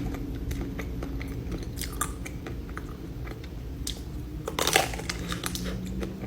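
A person chewing and biting into a dessert close to the microphone, with small crunchy crackles and a louder crunch about four and a half seconds in.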